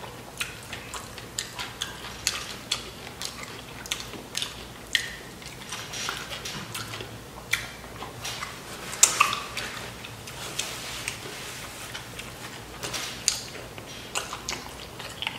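Close-miked chewing of Flamin' Hot Doritos nachos: irregular crunches and wet mouth clicks, with a louder cluster about nine seconds in. Fingers picking chips off a metal sheet pan add the odd scrape or tap.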